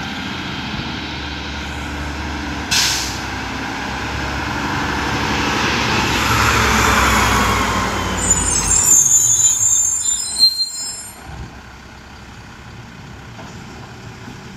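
Mack LR garbage truck's diesel engine running, with a short hiss of air brakes about three seconds in, then the engine rising in a swell. High brake squeals follow between about eight and eleven seconds in, after which the sound drops to a quieter level.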